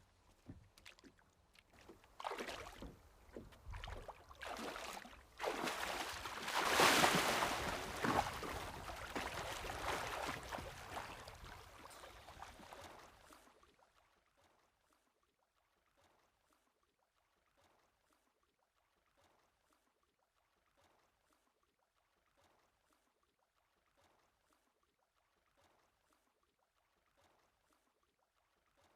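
Water splashing and churning as someone bathes in a lake, irregular and loudest about seven seconds in. It cuts off abruptly about halfway through, leaving near silence with faint soft ticks about every second and a half.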